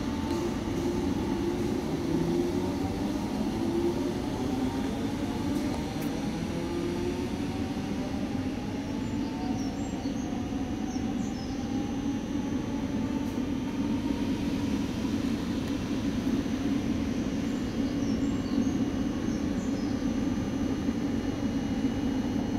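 Class 313 electric multiple unit pulling away, its motor whine rising in pitch as it accelerates over a steady rail rumble.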